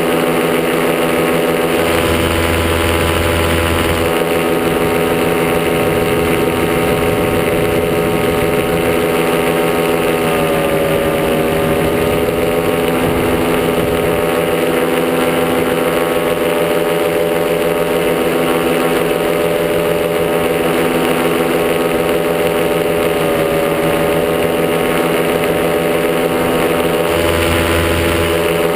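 Top80 single-cylinder two-stroke paramotor engine and propeller running steadily in flight. The pitch dips slightly twice as the throttle eases, about a third of the way in and again near the end.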